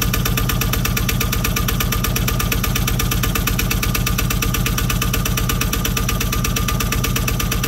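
Jouet 760 sailing yacht's engine idling steadily shortly after a cold start, with an even, rapid knocking beat.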